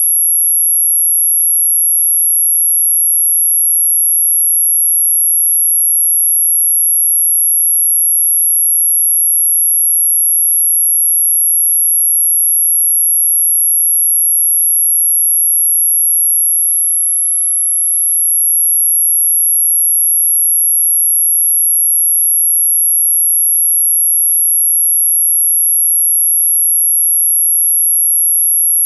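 A single steady, very high-pitched electronic sine tone, played as an anti-mosquito repellent sound. It dips slightly in loudness and pitch for a moment a little past halfway, then holds steady again.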